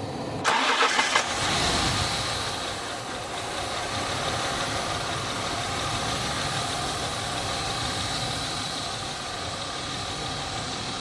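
BMW E36 328i straight-six cranked on the starter for about a second, catching and settling into an unstable idle that rises and sags. The car starts poorly in the cold and the idle will not hold steady, a fault the owner traces to the coolant temperature sensor.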